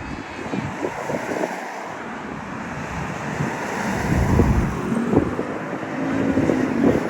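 Wind buffeting the microphone over a steady jet roar from the arriving Airbus A380's four engines. The gusts are loudest about four seconds in.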